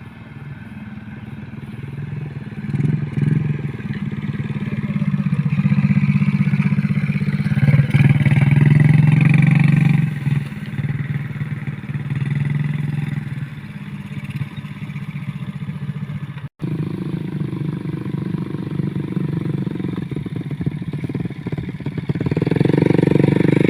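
Motorcycle engine running, swelling and easing in loudness as the throttle changes, with a sudden brief dropout about two-thirds of the way through.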